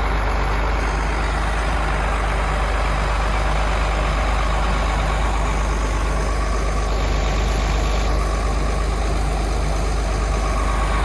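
Heavy truck's diesel engine running steadily, a low, even drone.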